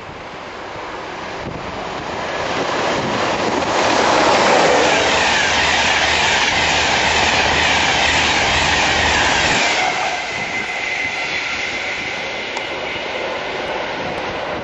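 An express passenger train passing at speed close by, its rushing rail and wheel noise building over a few seconds and holding loud, then dropping away sharply about ten seconds in. After that comes quieter train noise with a steady high whine.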